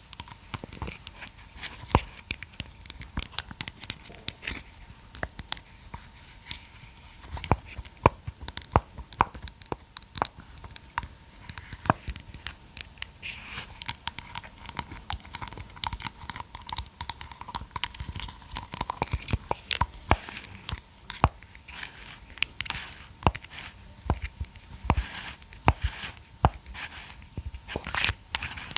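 Close-miked handling of a massage roller and ball: many irregular sharp clicks and taps, with scratching and crinkling between them.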